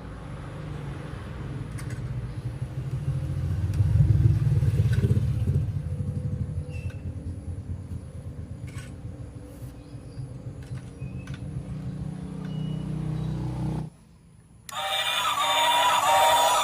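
Battery-powered toy train running on its track, a low rumble with scattered clicks that grows louder to a peak about four seconds in and then fades. It cuts off suddenly near the end.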